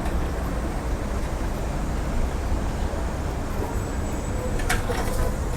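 Steady low rumble of town-centre road traffic, with a couple of faint clicks near the end.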